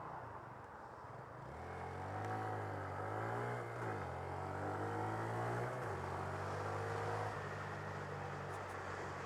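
Honda Grom 125's single-cylinder engine under way, its pitch climbing from about a second and a half in and stepping down a few times, over steady road noise.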